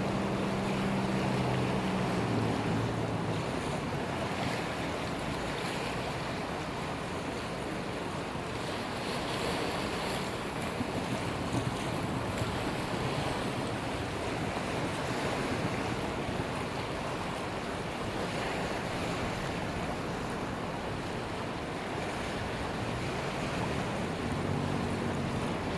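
Strong wind rushing and buffeting the microphone, mixed with the wash of the sea. A low engine hum is heard for the first few seconds, fades under the wind, and comes back near the end.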